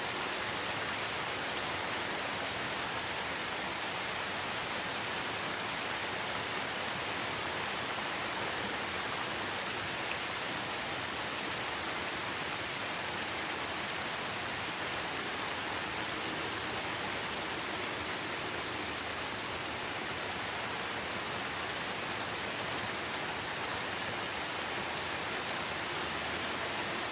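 Steady, even rain falling on foliage and surfaces, an unbroken hiss.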